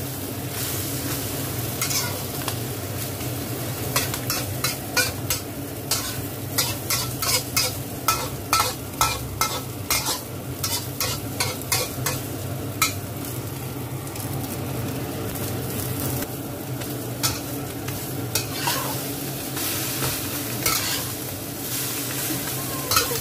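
A shellfish-and-egg omelette frying in hot oil in a wok, sizzling steadily, while a metal spatula scrapes and clacks against the wok. The clacks come thick and fast from about four seconds in to about thirteen, then more sparsely.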